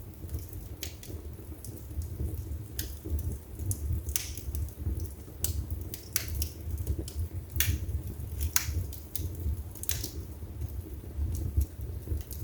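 Wood fire burning in a fireplace: sharp, irregular crackles and pops, roughly one a second, over a low steady rumble of the flames.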